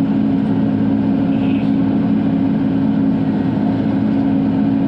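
Bobcat E42 mini excavator's diesel engine running steadily, heard from inside the cab, with a constant low hum.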